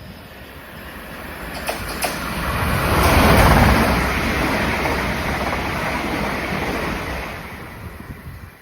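A train passing along the line: wheel and rail noise that swells to a peak about three and a half seconds in, then fades away, with a couple of sharp clicks just before two seconds in.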